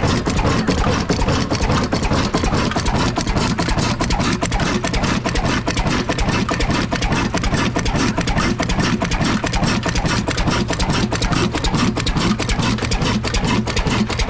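Old Ruston diesel engine with double flywheels running steadily, its firing beats coming evenly several times a second.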